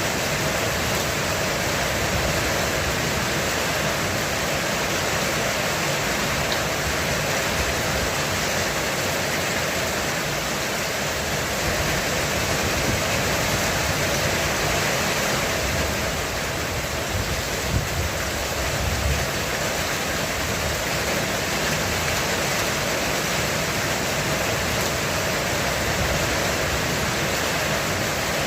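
Heavy rain falling steadily on a roof, an even dense hiss of drops. A few brief low thuds come about two-thirds of the way in.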